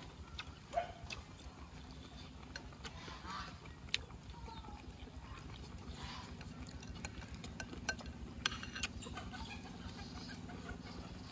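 A person chewing and crunching cooked June beetles, with occasional sharp clicks of a metal spoon against the bowls.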